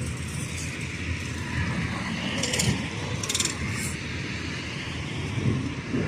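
Steady low rumble of a passing river tug and barge tow, mixed with wind on the microphone, with three short high rattling bursts in the middle.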